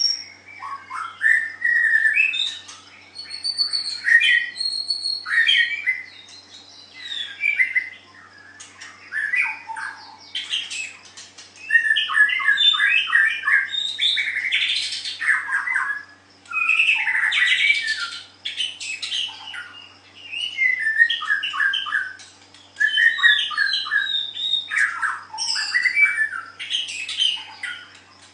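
White-rumped shama singing: bouts of rapid, varied chattering and whistled phrases, broken by brief pauses. A faint steady electrical hum runs underneath.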